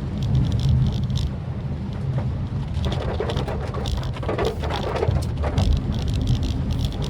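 Maruti Suzuki Swift Dzire driving in rain: a steady low engine and road rumble with rain spattering on the car, and a louder rushing noise for a couple of seconds midway.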